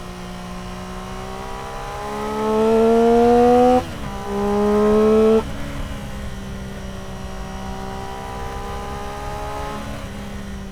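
Triumph Street Triple R three-cylinder engine through an Arrow exhaust, accelerating hard: the pitch climbs for about two seconds, drops at a gear change, climbs again, then the throttle is closed and the engine note falls slowly as the bike slows.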